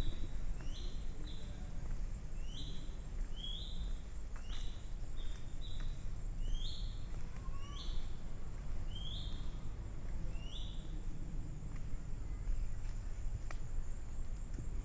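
A bird calling over and over, short sweeping notes about one a second that stop about ten seconds in, over a steady high-pitched pulsing buzz and a low background rumble.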